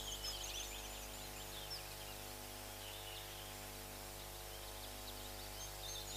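Birds chirping, many quick high calls, busiest at the start and again near the end, over a steady low electrical hum.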